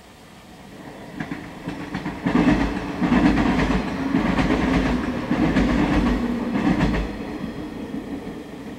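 Yellow electric commuter train passing close by, wheels clattering over the rail joints; it builds up, is loudest for several seconds in the middle, then fades as the last car goes by near the end.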